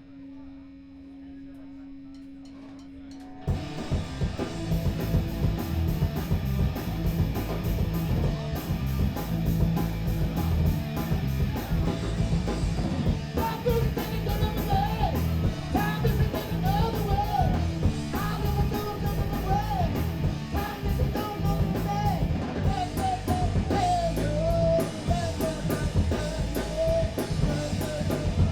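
Live punk rock band playing: a single held note, then about three and a half seconds in the drums, guitar and bass come in together at full volume and keep a steady driving beat.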